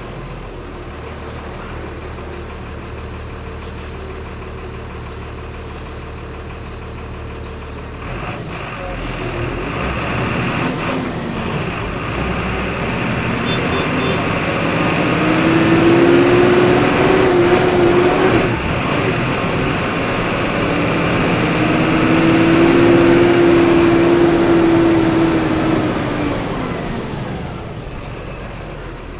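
Volkswagen 17.230 EOD city bus engine heard on board. It idles steadily, then pulls away and accelerates in two long pulls, its pitch rising and falling with each, and eases back off near the end.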